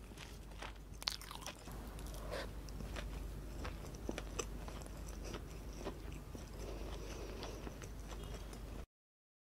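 A person chewing a mouthful of food close to the microphone, with many short, sharp mouth clicks. The sound cuts off abruptly about half a second before the end.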